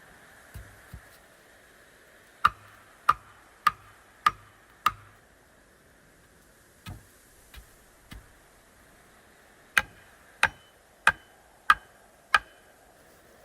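Two series of five sharp, evenly spaced knocks about 0.6 s apart, with a few fainter knocks before and between them: repeated striking of something hard.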